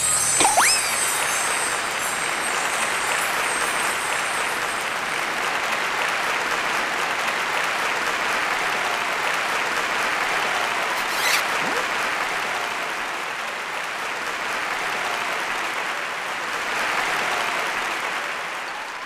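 Audience applause, steady and dense, dying away near the end.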